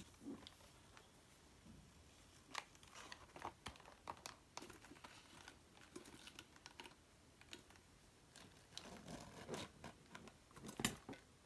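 Faint crinkling and light irregular clicks of paper being handled by hand, with one sharper tap near the end.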